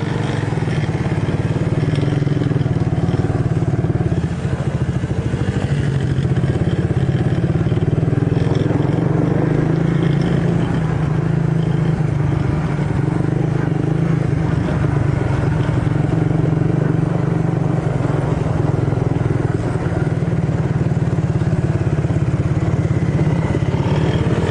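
Small off-road engines running steadily at an even speed, with some clatter from the ride.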